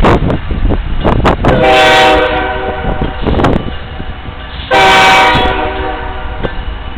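Diesel locomotive air horn sounding two loud chord blasts, a short one about two seconds in and a slightly longer one about five seconds in, over wind buffeting the microphone.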